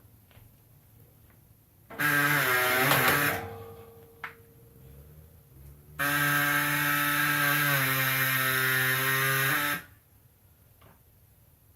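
Harbor Freight pneumatic air saw, run at about 90 psi, cutting away the bottom section of a pickup's front bumper. It runs in two bursts: a short one about two seconds in, then a steady run of about four seconds whose pitch drops a little partway through as the blade meets more load.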